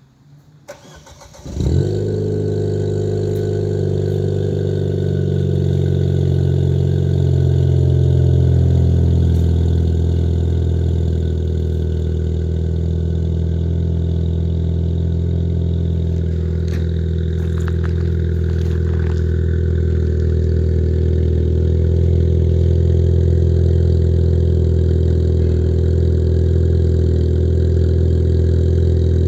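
2019 Ford Fiesta ST turbocharged engine, breathing through an MBRP cat-back exhaust, cranking and firing about a second and a half in on a cold start. It then settles into a steady, raised cold idle, easing down a little after about ten seconds.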